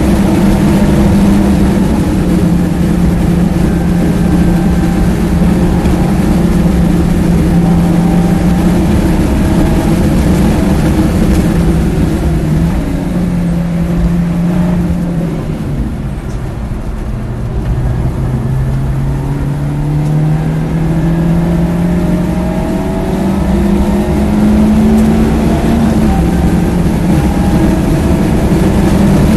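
BMW E36 318ti's stock M42 1.8-litre four-cylinder engine running hard at high revs on track. About halfway through the revs fall and the sound dips as the car slows for a corner. It then pulls with steadily rising revs, with an upshift a few seconds before the end.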